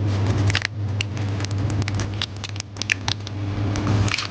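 Many small, quick clicks and taps of laptop parts and tools being handled during a MacBook Pro battery replacement, over a steady low hum.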